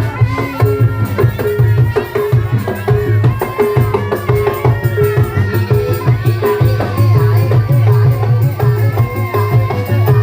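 Live Javanese folk music: hand drums and pitched percussion playing a steady rhythm, with one note struck over and over.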